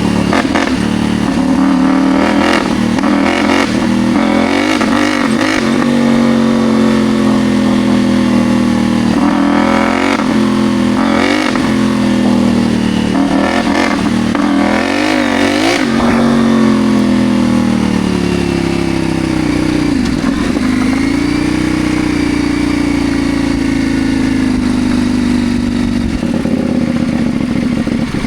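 CFMoto Ibex 800 T's parallel-twin engine running on the move, its pitch rising and falling with the throttle, then easing steadily lower with a brief dip about twenty seconds in. Short clattering knocks recur through the first half.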